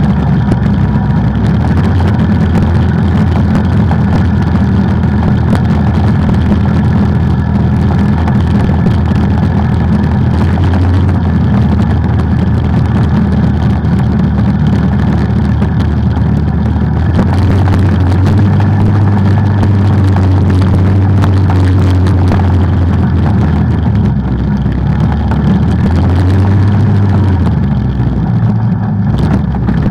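Off-road vehicle's engine running steadily under way on trails, its note rising about halfway through and easing back down a few seconds later.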